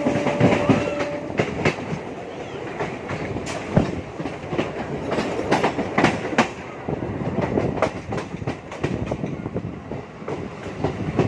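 A MEMU electric train running along the line, a steady rumble with its wheels clicking and knocking irregularly over the rail joints. A steady tone fades out about a second in.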